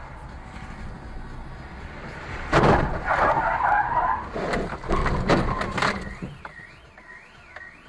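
Vehicle collision heard from inside a car: road rumble, then a sudden loud crash about two and a half seconds in, with a screeching skid or scrape and several more sharp crunching knocks over the next few seconds. Near the end a warbling tone rises and falls about twice a second.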